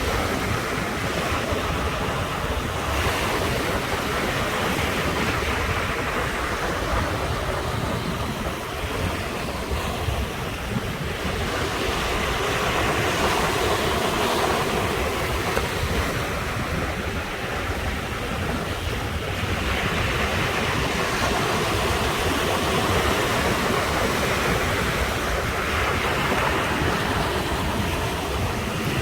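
Ocean surf breaking and washing onto the shore in a continuous wash of noise that swells and ebbs every few seconds.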